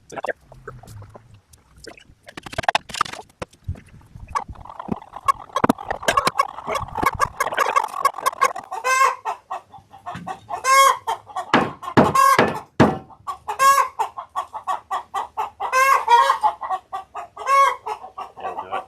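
Chickens clucking and cackling in a run of short repeated calls, with a few sharp knocks around the middle.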